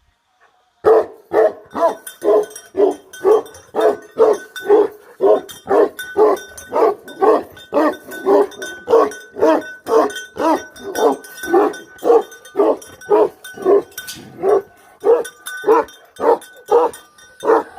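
Bhote Kukur (Tibetan Mastiff) guardian dog barking over and over at a steady pace of about two barks a second, starting about a second in.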